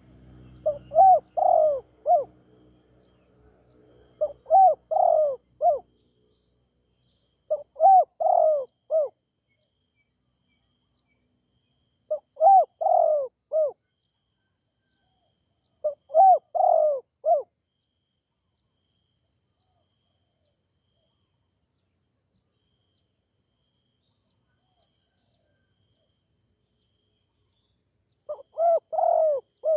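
Spotted dove cooing in short phrases of a few rounded notes each: five phrases a few seconds apart, a pause of about ten seconds, then one more near the end.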